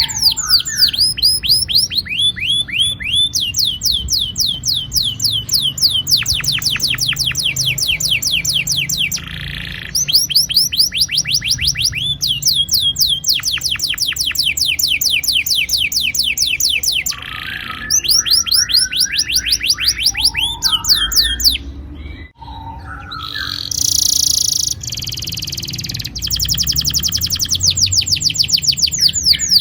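Domestic canary singing long rolling trills: runs of rapid, repeated falling notes lasting several seconds each, broken by short pauses, with a harsher buzzy phrase about two-thirds of the way through.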